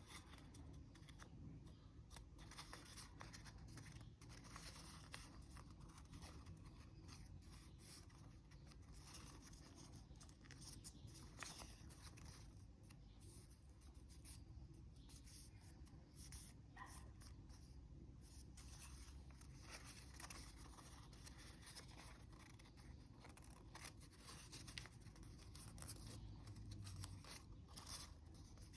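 Faint rustling, crinkling and scraping of a sheet of origami paper being folded and creased by hand.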